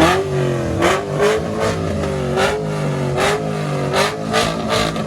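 Car engine revving repeatedly, its pitch rising and falling in quick blips, with several sharp cracks over the revs.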